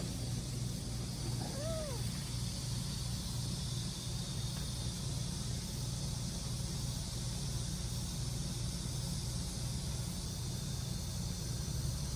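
A cat gives one short meow about a second and a half in, over a steady low rumble and hiss.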